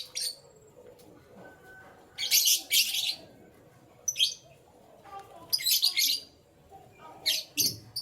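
Canaries chirping in several short bursts of rapid, high notes, with quieter gaps of a second or two between them.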